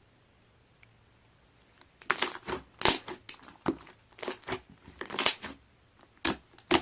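Slime being squeezed and pressed by hand, making a run of irregular crackly, crinkly squishes that start about two seconds in.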